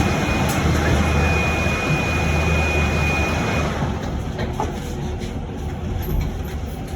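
Cabin noise inside a moving electric bus: a steady low rumble and hiss, with a thin steady high tone for about three seconds. The hiss then drops off noticeably.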